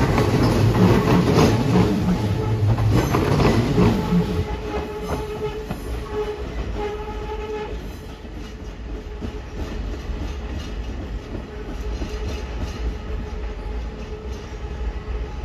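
Hanshin 8000-series electric train running over points and rail joints: a loud rumble with clickety-clack for the first few seconds, then fading as it draws away, with a steady whine and faint clicking of the wheels on the crossings.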